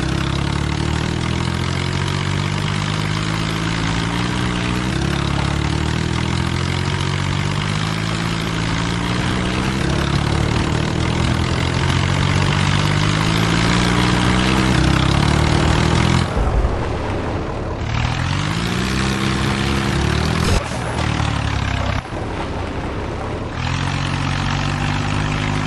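Diesel tractor engines running hard under heavy load in a tractor tug-of-war. Partway through the sound briefly drops away and then the engine pitch rises again as it revs back up.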